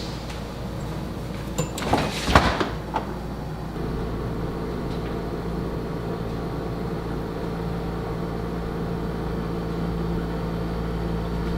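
A short burst of knocks and clatter, like a door or cupboard being handled. About four seconds in, a steady appliance hum with a low held tone comes on and keeps running.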